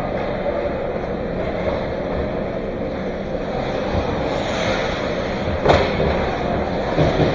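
Ice hockey game noise: a steady rink din with one sharp crack about two-thirds of the way through and a couple of lighter knocks near the end.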